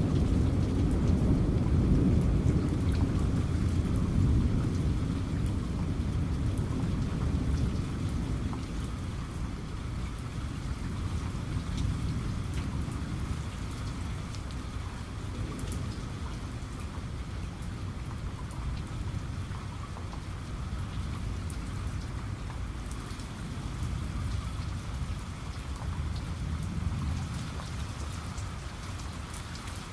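Rain falling steadily with scattered drop ticks, under a low thunder rumble that fades away over the first ten seconds or so.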